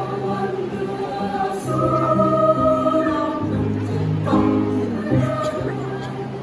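High-school choir singing in several parts, holding sustained chords that shift about every second over a low bass line.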